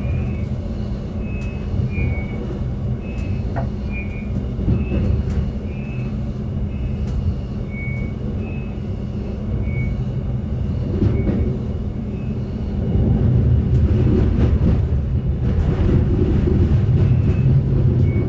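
Onboard running sound of a GTW 2/6 diesel railcar rolling slowly into a station: a steady low rumble with short high squeaks every second or so. It grows louder about two-thirds of the way through.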